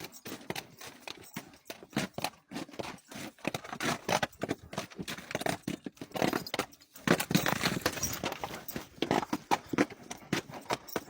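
A horse's hooves clip-clopping: an uneven run of sharp knocks, several a second.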